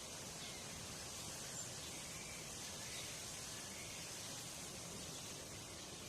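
Steady outdoor background noise, an even hiss, with a few faint short chirps.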